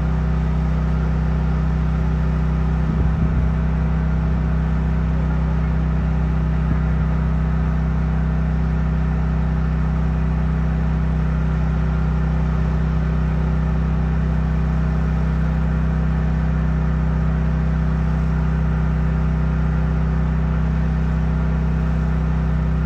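DJI T50 agricultural spray drone's rotors humming steadily at one constant pitch, with a brief low thump about three seconds in.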